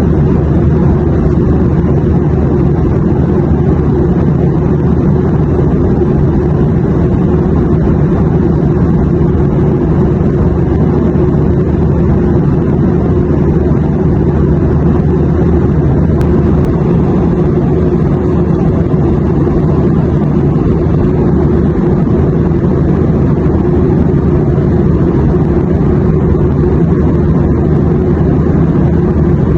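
Steady, low airliner cabin drone: engine and airflow noise heard from inside the cabin, unchanging throughout.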